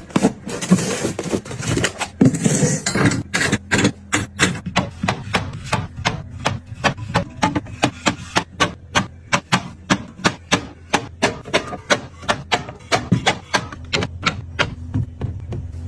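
A rapid series of light taps and clacks, about two to three a second, as products are set down one by one into an organiser while it is being restocked. A rustling noise runs through the first few seconds.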